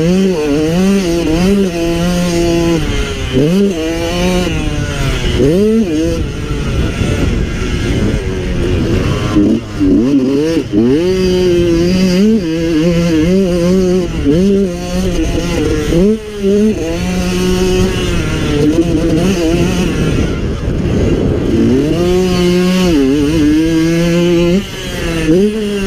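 Yamaha YZ125 two-stroke single-cylinder engine revving hard and falling back again and again while riding, with brief throttle chops several times.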